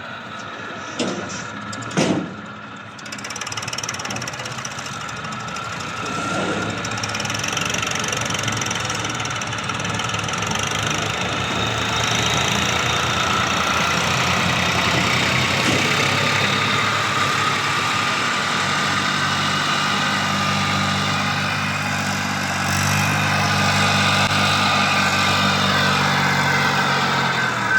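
Eicher 480 tractor's three-cylinder diesel engine running under a heavy load, building up over the first several seconds and then holding steady. Two sharp knocks come about one and two seconds in.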